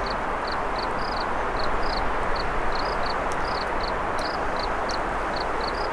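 River water rushing steadily, with short high chirps repeating about two or three times a second above it.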